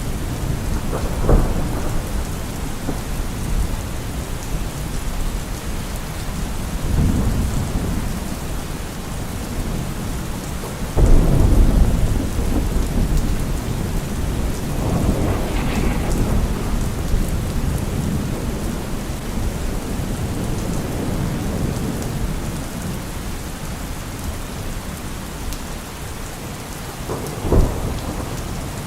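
Steady rain falling on forest leaves, with rolls of thunder: a loud low rumble about eleven seconds in, and shorter ones near the start, in the middle and near the end.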